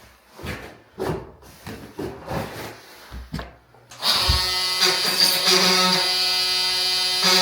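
A run of irregular light knocks, then about four seconds in an electric power tool starts suddenly and runs with a steady whine.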